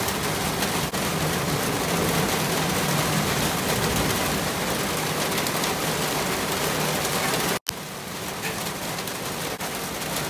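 Steady rain falling in a thunderstorm, an even hiss. It cuts out for an instant about seven and a half seconds in and comes back quieter.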